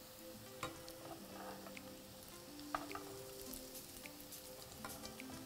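Kothimbir vadi (coriander and gram-flour squares) shallow-frying in oil in a pan: a soft, steady sizzle with a few scattered pops.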